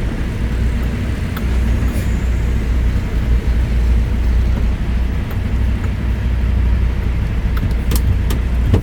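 Semi-truck's diesel engine running steadily at low revs, a low rumble, with a couple of faint clicks near the end.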